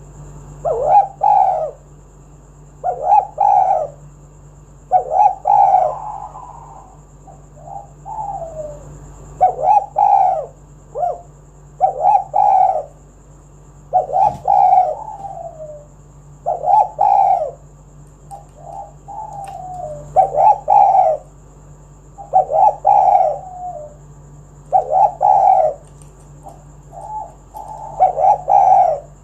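Dove cooing: a short phrase of several quick coos repeated about every two seconds, with a faint steady hum underneath.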